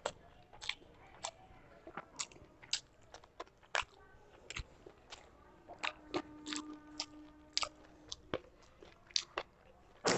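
Close-up mouth sounds of someone eating rice and chicken curry by hand: irregular short, sharp wet clicks and smacks of chewing, with fingers mixing rice into curry.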